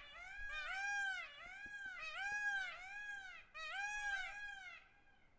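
Peacock calling in a rapid series of arched, wailing calls, each rising then falling in pitch, about two a second, fading away near the end.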